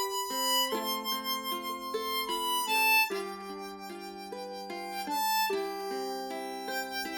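Harmonica playing a slow melody with held chords, accompanied by ukulele.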